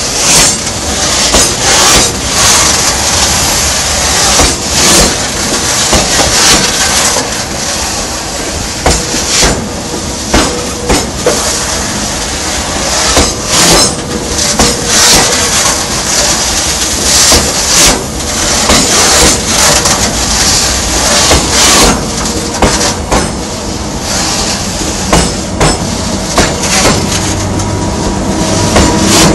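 Freight train's open wagons rolling past close by, their wheels clacking over the track in a loud, uneven run of sharp knocks over a continuous rumble, with a faint steady whine underneath.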